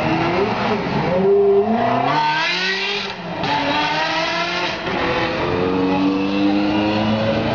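Ferrari sports car engine accelerating hard, its pitch climbing through the revs. There is a brief break about three seconds in, like a gear change, then it climbs again and settles into a steadier note.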